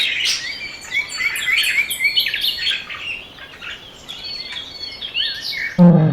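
Several birds chirping and singing together in a busy chorus of short, high calls. Near the end, a loud, deep-pitched animal call cuts in over them.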